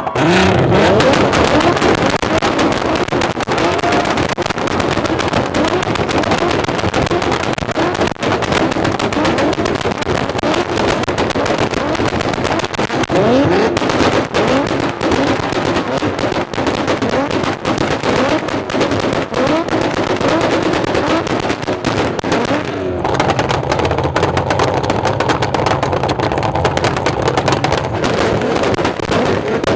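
Loud car engines running and revving, with many sharp exhaust pops and crackles. About 23 seconds in, a steadier engine drone takes over.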